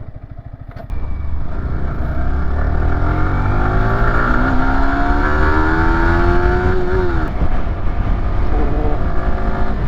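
Yamaha YZF-R125's single-cylinder four-stroke engine pulling under acceleration. It runs low for about a second, then the throttle opens and the note climbs steadily for several seconds. The pitch drops sharply about seven seconds in, then the engine carries on at a steady level.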